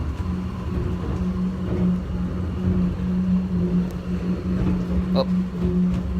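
Airport subway people-mover train running, heard from inside the car: a steady low hum over a continuous rumble.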